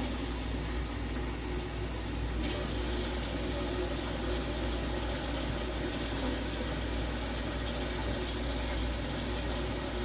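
Kitchen tap running steadily, filling a measuring cup with hot water.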